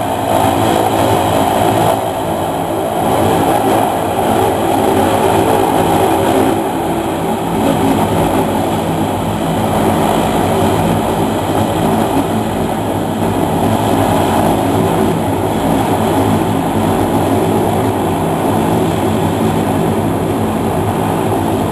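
ATR 42 twin-turboprop airliner at takeoff power: a loud, steady engine and propeller drone, several even propeller tones layered over a roar.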